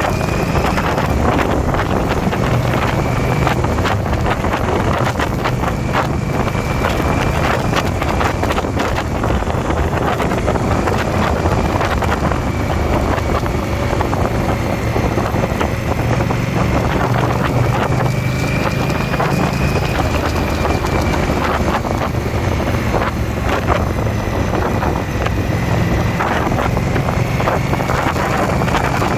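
Indian V-twin motorcycle riding at a steady speed: a low, even engine drone under heavy wind noise on the microphone.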